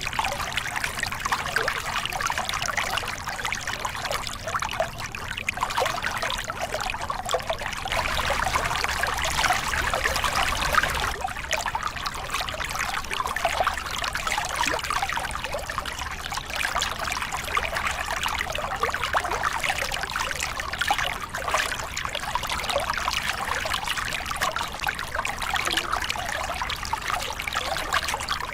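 Small river cascade: water pouring and splashing over rocks in a steady, even rush.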